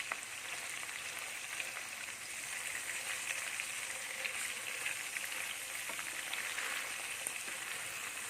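Mackerel coated in chilli paste sizzling steadily as they shallow-fry in hot coconut oil, with scattered small crackles and spits.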